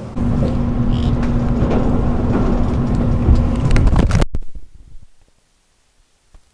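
Train running noise heard inside the carriage of an electric train: a loud low rumble with a steady hum, which cuts off abruptly about four seconds in.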